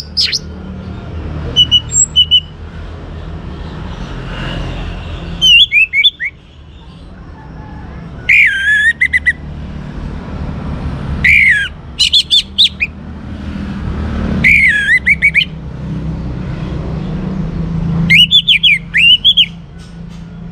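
Young orange-headed thrush singing: short phrases of quick, warbling whistled notes repeated every two to three seconds, with pauses between them. A steady low rumble runs underneath.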